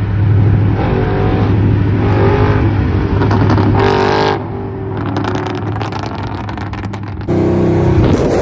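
Car engine running loudly, its revs wavering up and down. The sound drops suddenly about four seconds in and comes back louder near the end.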